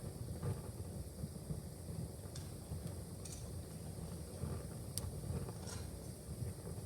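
Wood fire in a fireplace crackling: a handful of sharp pops over a steady low rumble, the loudest pop about five seconds in.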